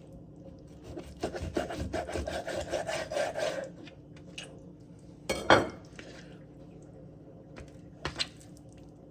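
Kitchen knife sawing back and forth through a raw chicken breast on a cutting board, in quick repeated strokes for a couple of seconds. This is followed by a sharp knock, the loudest sound, and a couple of light clicks near the end.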